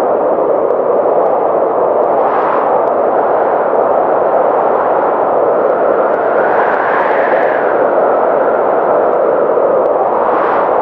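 Blizzard wind blowing hard as a steady, loud rush, swelling in gusts about two seconds in, around the middle, and again near the end.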